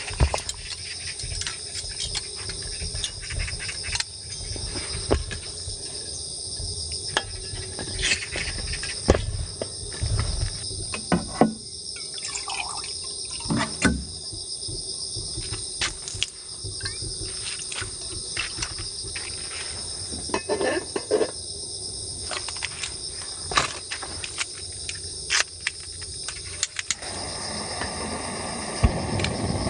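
Crickets trilling steadily in a high band, with scattered sharp clicks and knocks over it. Near the end a steady rushing noise comes in.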